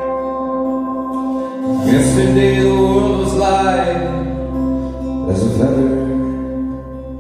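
Live band playing the slow intro of a song: a steady held chord rings throughout, with two louder swells, one about two seconds in and one about five and a half seconds in.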